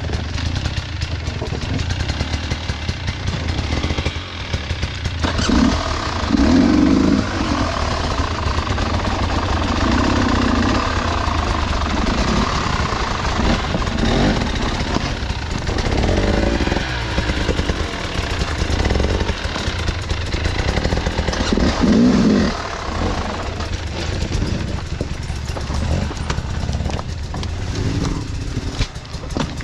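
Off-road motorcycle engine running continuously on a rough trail ride, with throttle surging louder several times.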